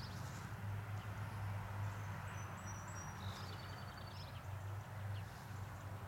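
Outdoor ambience with a steady low hum, and a small bird's thin high-pitched chirps and a short trill from about two seconds in to just past the middle.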